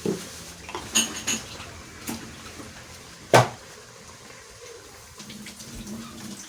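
Cooking utensils and pots clinking and knocking: a handful of sharp clinks, one with a short metallic ring about a second in, and the loudest knock about three and a half seconds in.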